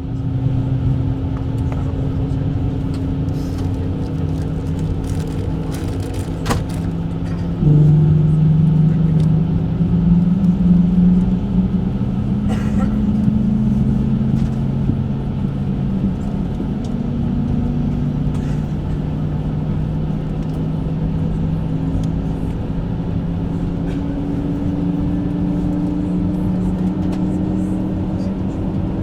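Airbus A220's Pratt & Whitney geared turbofan engines starting up: a steady hum with whining tones that slowly climb in pitch as the engines spool up, growing louder about eight seconds in.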